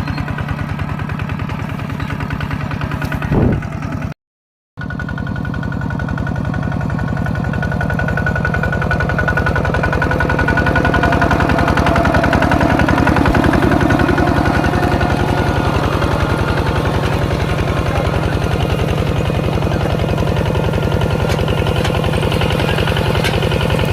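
Tractor engine running steadily with a rapid, even knock of firing strokes. The sound cuts out completely for about half a second some four seconds in, then resumes.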